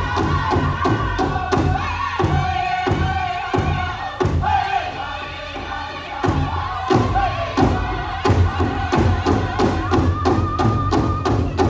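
Powwow drum group: a big drum struck steadily about four beats a second, with several voices singing together in high, sliding lines. The drumbeats thin out for a few seconds in the middle, then return.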